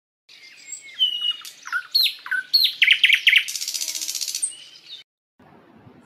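Songbird song: a string of quick high chirps and downward-sweeping whistled notes, then a rapid buzzy trill, cutting off suddenly about five seconds in.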